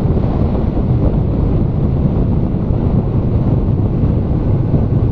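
Steady, loud wind rush on the camera microphone from riding a motorcycle at speed.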